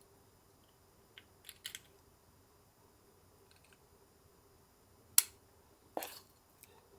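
Small handling sounds of kitchen prep: a few light taps, a sharp click about five seconds in, then a short scrape or rustle.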